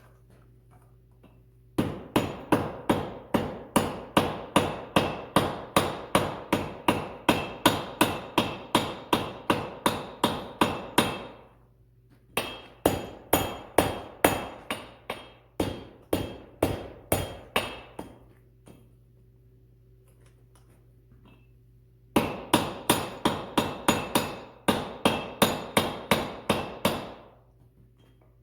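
Hand hammer striking a hot 1/2-inch steel chain link on an anvil, forging the link: three runs of quick, ringing blows, about three a second, with short pauses between them. A steady low hum runs underneath.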